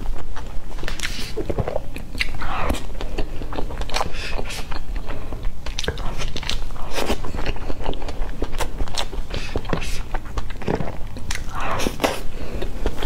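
Close-miked chewing and mouth sounds of a person eating soft cream layer cake from a spoon, with many short sharp smacks and clicks.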